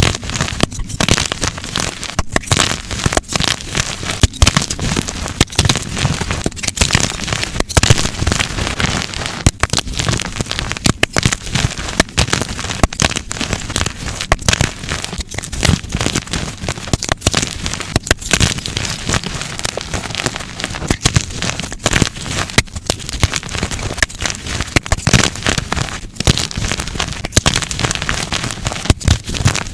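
Dyed gym chalk blocks being crushed and snapped by hand: a continuous run of dense crunches and sharp snaps.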